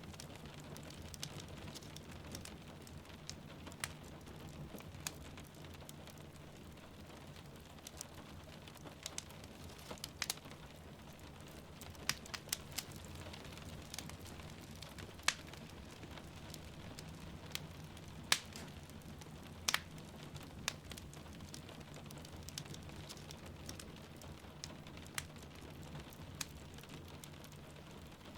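Wood fire crackling, with sharp irregular pops every second or so, over a steady hiss of rain.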